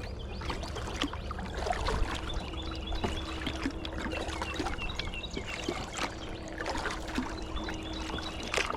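Water trickling and splashing around a kayak on a flowing river, with scattered drips and small knocks against the hull.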